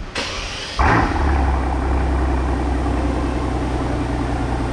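Mercedes S65 AMG's twin-turbo V12 starting: it fires about a second in with a brief flare, then settles into a steady, low idle.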